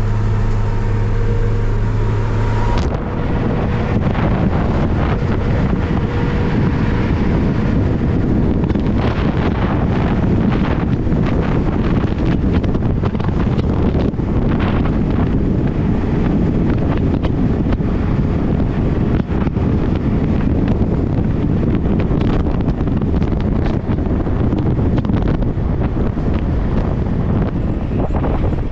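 Wind buffeting the microphone: a loud, steady low rumble with frequent crackles. About three seconds in, a steady hum stops.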